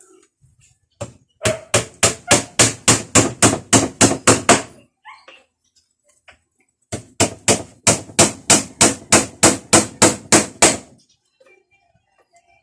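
A hammer driving nails into wood in two quick runs of rapid blows, about four a second, each run lasting three to four seconds with a pause between.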